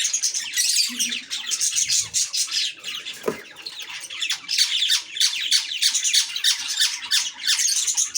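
Lovebirds giving a rapid, unbroken stream of shrill chirps and squawks.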